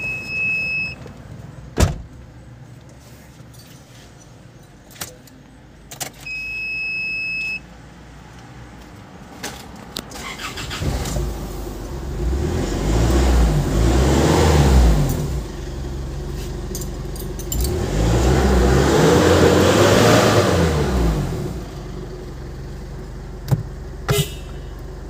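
Isuzu Alterra diesel engine running after a fuel filter change: idling, then revved up and let back down twice, each rev lasting a few seconds, before settling back to idle. A dashboard chime beeps twice in the first seconds, with a few light clicks.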